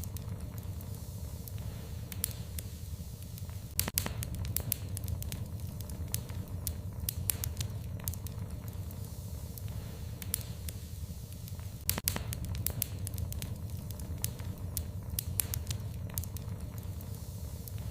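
Wood fire crackling in a fireplace: irregular sharp pops and snaps over a steady low rumble. Two louder pops come about four seconds in and about twelve seconds in.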